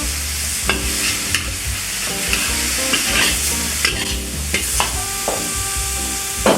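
Chicken and vegetables sizzling in a hot pan while being stirred, with the utensil clicking and scraping against the pan several times.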